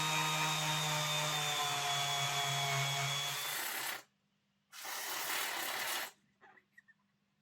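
A small handheld electric rotary tool runs with a steady whine and a hiss as it scrubs the tarnish off a model locomotive's wheels. Its pitch sags a little under load. It stops after about four seconds, then runs again briefly.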